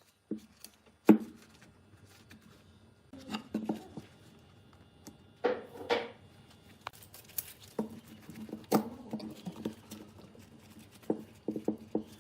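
Scattered knocks, taps and clicks of objects being handled, irregular and unevenly spaced, the sharpest knock about a second in and a quick run of taps near the end.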